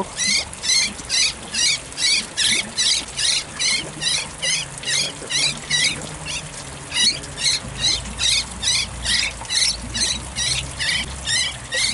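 A trapped bird, caught by its left leg, calling over and over in distress: short, shrill squeals about three a second, with no break.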